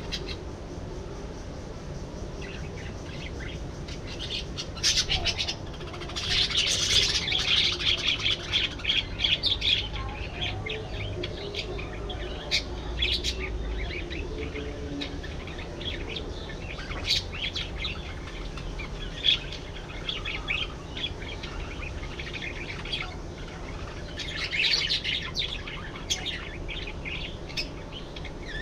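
A flock of budgerigars chattering and chirping, with dense bursts of warbling about six to ten seconds in and again near the end, and sharp single chirps in between.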